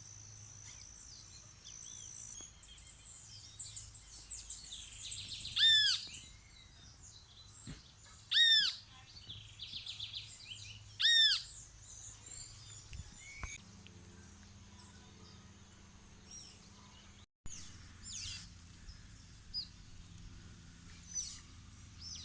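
Wild birds calling. One bird gives a loud, arched call three times, about two and a half seconds apart, over quieter chirps and trills from others.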